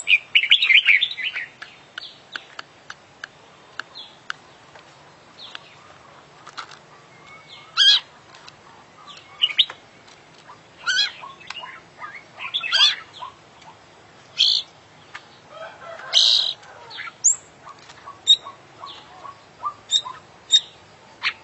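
Oriental magpie-robin (kacer) singing a varied song of short chirps, whistled notes and sharp clicks, with a fast run of notes about a second in and louder phrases every couple of seconds; the song is full of imitated calls of other birds.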